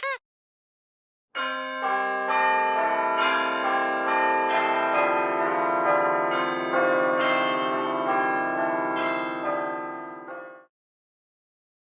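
Bells ringing a peal: struck notes following one another about every half second, each ringing on and overlapping the rest. It starts about a second and a half in and fades out near the end.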